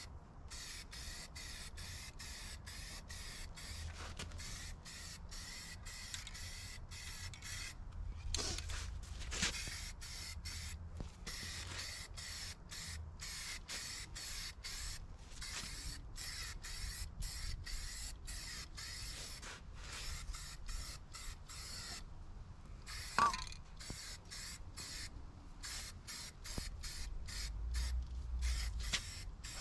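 Paint spraying onto the skid steer: a hiss broken by many brief pauses, with a short louder sound about two-thirds of the way through and a low rumble near the end.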